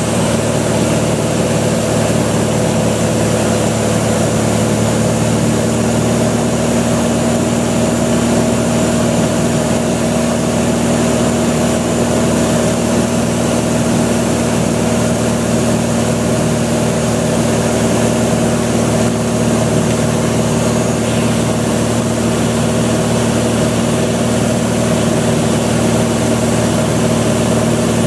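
Cessna 182 single-engine piston engine and propeller running at a steady drone, with an even hum and no change in pitch.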